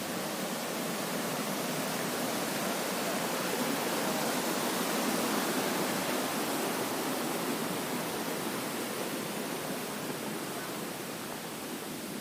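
Mountain stream rushing over rocks: a steady, even rush of water that swells slightly near the middle.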